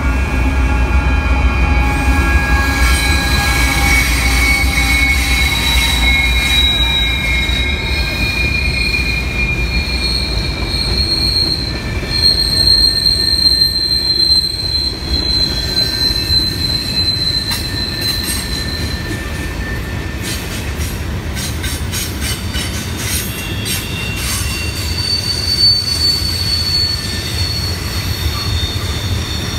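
Train rolling past, its wheels squealing against the rails in long high tones that drift slightly in pitch over a steady low rumble. A run of rapid clicks joins in the later half.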